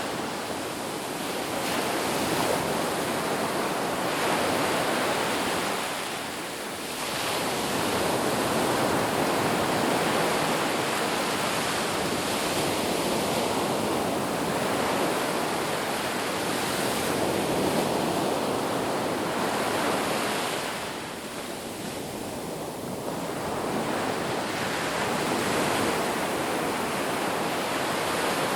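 Ocean surf washing on a beach, a steady rush of breaking waves that swells and eases, dipping briefly about a quarter of the way in and again past the middle.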